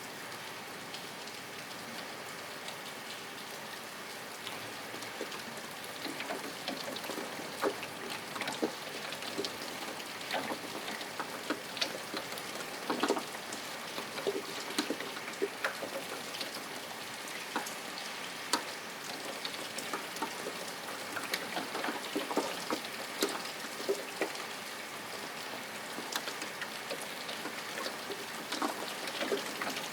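Steady rain falling, with individual drops striking close by. The drops come more often from about six seconds in.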